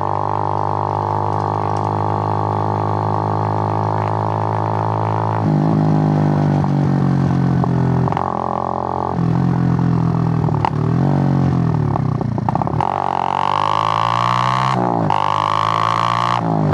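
Suzuki GN125's single-cylinder four-stroke engine running steadily, then rising and falling in pitch through several gear changes, climbing to high revs near the end with a short break before settling lower.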